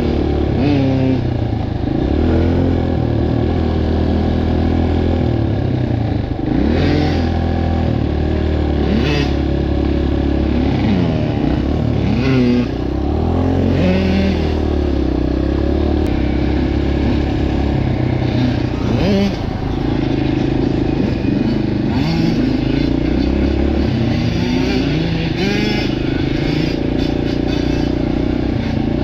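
Dirt bike engine running under riding load, the revs repeatedly rising and falling as the throttle is worked and gears are changed, with steadier stretches between.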